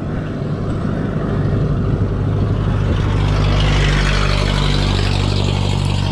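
A motor vehicle's engine running close by with a steady low hum, amid road noise that grows louder from about a second in.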